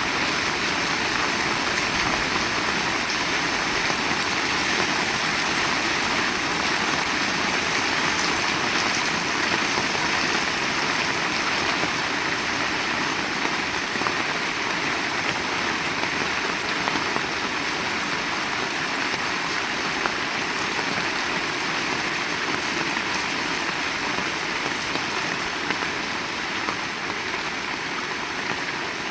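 Heavy rain falling steadily, an even dense hiss that eases slightly near the end.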